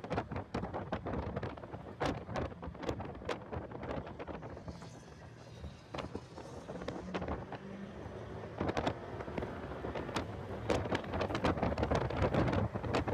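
Heavy wind buffeting on the microphone of a car lapping a track at speed: a rough crackling rumble. It eases a little midway and builds again toward the end.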